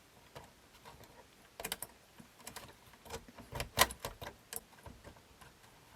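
Scattered light clicks and taps of small parts and tools being handled on a workbench, irregularly spaced, with the sharpest click a little under four seconds in.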